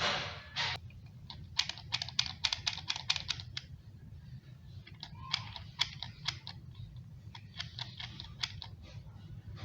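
Rapid runs of small, sharp clicks and taps, like hard plastic kettle-lid parts being worked by hand. They come in three bursts over a steady low hum.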